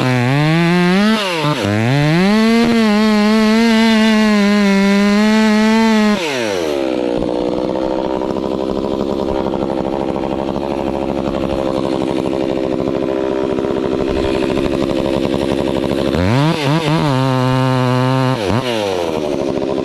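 Stihl MS362 two-stroke chainsaw at full throttle, its pitch dipping twice, then dropping to idle about six seconds in. It idles for about ten seconds, revs up briefly near the end and falls back to idle.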